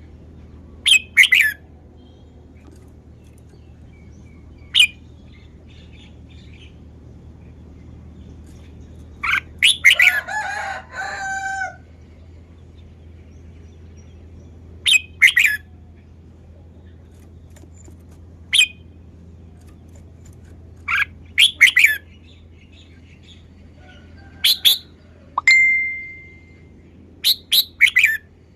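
Red-whiskered bulbul singing: short, bright phrases every few seconds, with one longer warbling phrase about ten seconds in. A steady low hum runs underneath.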